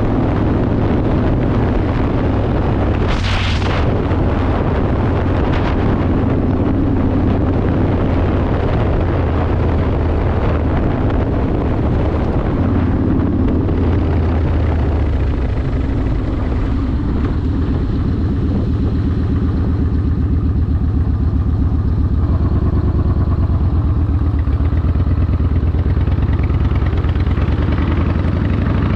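A Yamaha Warrior 1700's V-twin running through a custom exhaust at a steady cruise, with a deep, fast-pulsing throb. A brief rush of noise comes about three seconds in.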